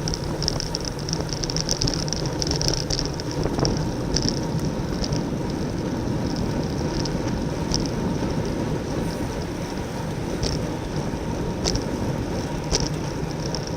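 Rushing wind on the microphone and road noise from a road bicycle ridden at race speed in a pack, steady throughout, with a few short clicks.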